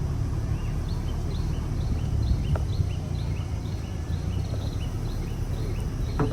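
Steady low hum of a car's engine and cabin, with a regular high chirp repeating about twice a second in two alternating pitches.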